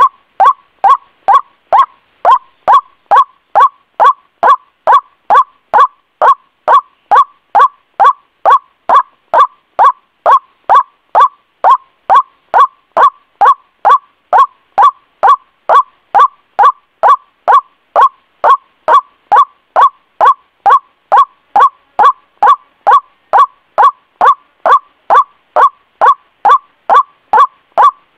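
White-breasted waterhen (ruak-ruak) lure call: one short call repeated evenly about twice a second without a break, from a looped lure recording.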